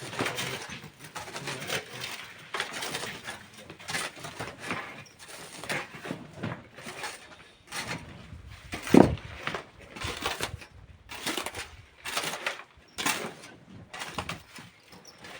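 Hand tools working rock and sand: an irregular run of scrapes and knocks, roughly one or two a second, with one much louder hit about nine seconds in.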